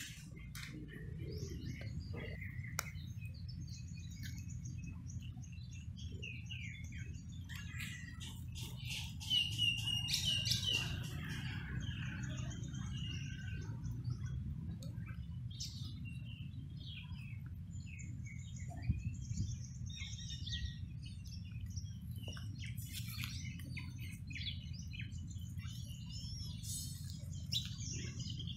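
Several birds chirping and singing in short calls and trills, busiest about ten seconds in, over a steady low rumble.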